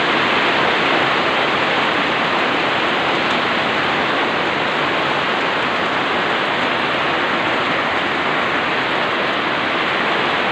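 Steady heavy rain on a roof: a dense, even hiss with no single drops standing out.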